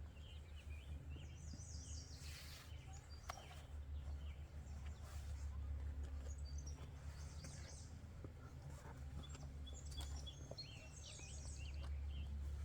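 Small birds chirping and twittering on and off, over a steady low rumble.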